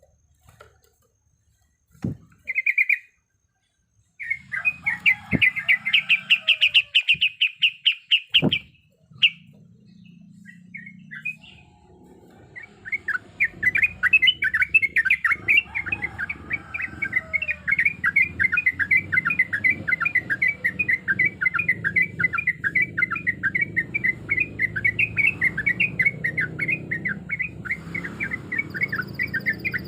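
Yellow-vented bulbul singing: a couple of short calls, a fast trill of repeated notes, then from about halfway a long, rapid rolling trill that keeps on.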